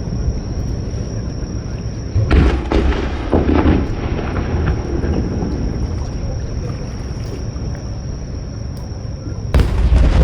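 Aerial fireworks bursting: a boom about two seconds in, another a second later, and a third near the end, each trailing off in a rumble, over a steady low rumble.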